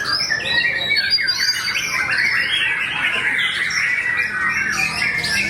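Dense, continuous chorus of many songbirds singing over one another: fast chattering phrases, trills and whistles with no pause.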